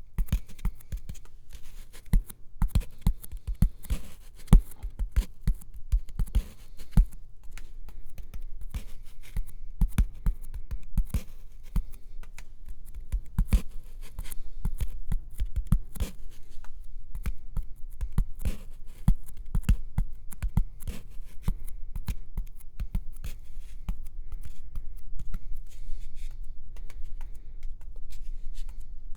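Close-miked ASMR tapping, layered into a dense run of quick taps and clicks, many with a dull low thump.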